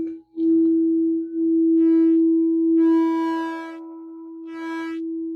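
Singing bowl sounding one steady, sustained tone. It breaks off briefly just after the start, then holds, and bright ringing overtones swell twice, once around the middle and again near the end.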